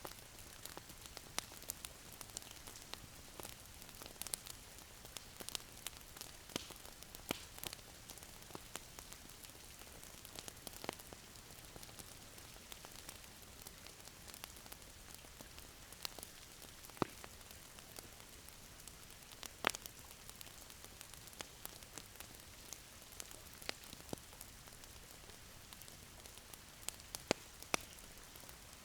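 Wood fire crackling in a fireplace: a steady soft hiss with frequent irregular pops and snaps, a handful of them louder.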